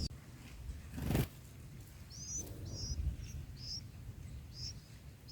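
Short, high bird chirps repeated about every half second from about two seconds in, over a low outdoor rumble, after a brief rustling burst about a second in.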